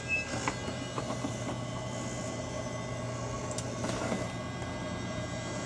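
Cessna 172SP's electric wing-flap motor running as the flaps extend: a steady whine over a constant low electrical hum.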